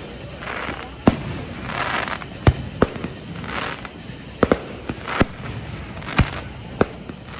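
Aerial fireworks bursting in a string of sharp bangs, roughly one a second, some coming in quick pairs.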